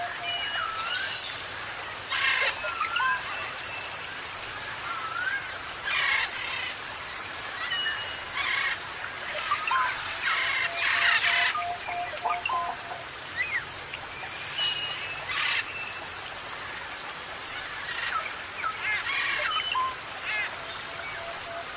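Parrots calling: a scattering of short harsh squawks mixed with whistled rising and falling notes, over a steady background hiss.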